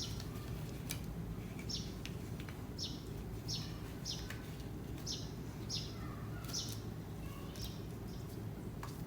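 A bird chirping repeatedly: short, high chirps, each falling in pitch, spaced about half a second to a second apart, over a steady low background hum.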